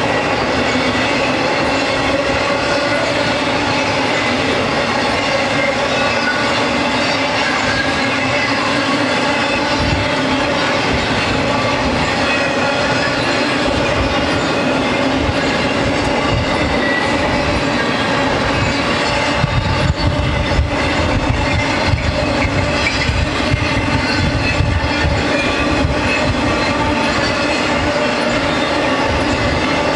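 Intermodal freight cars loaded with trailers rolling steadily past on steel rails, with the clatter of wheels over the track and a steady metallic whine from the wheels. The knocks grow heavier about twenty seconds in.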